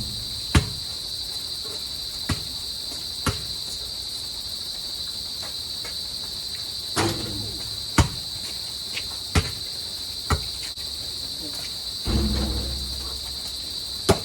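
Steady high-pitched insect chorus, with sharp irregular thuds of a basketball bouncing and striking on an outdoor court, two of them duller and longer.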